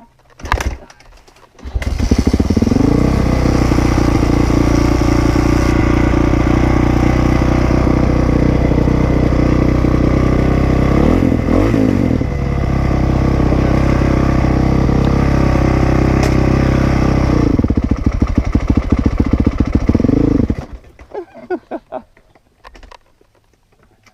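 Dirt bike engine starting about two seconds in and running at a steady idle, with a brief change in revs near the middle. It cuts out abruptly about twenty seconds in.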